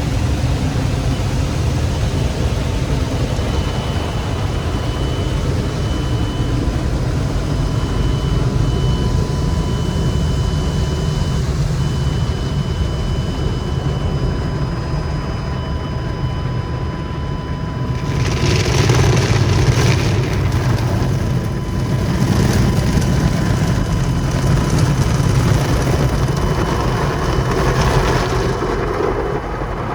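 Automatic car wash machinery running with a steady low rumble and a faint whine. Roughly two-thirds of the way through, a louder rushing noise of the wash starts up and surges.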